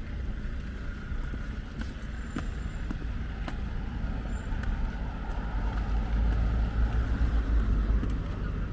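Street traffic: a car driving past, its low rumble swelling to the loudest point about six to eight seconds in and then fading.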